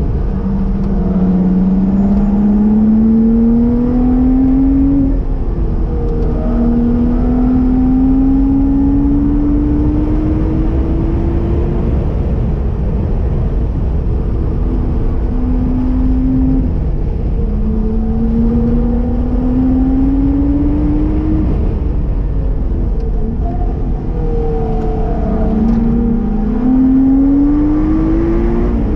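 Lotus Exige engine heard from inside the cabin on track. Its note rises in pitch under acceleration, drops at each gear change or lift off the throttle, and climbs again several times, over steady road and wind noise.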